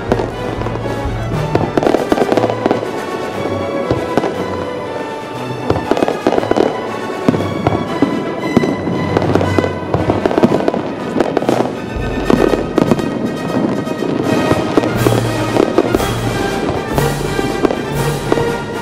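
Fireworks bursting and crackling in rapid, continuous succession, with music playing along.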